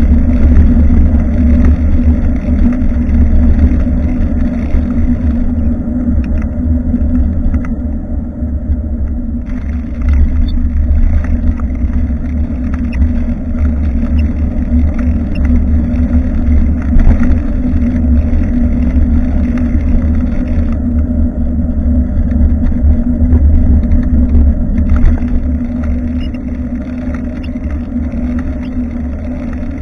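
Steady low wind rumble and road vibration picked up by a rear-facing action camera mounted on a moving bicycle, with scattered small rattles.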